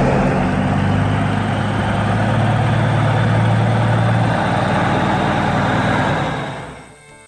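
A heavy truck engine running steadily with a loud rushing noise over it, fading away near the end.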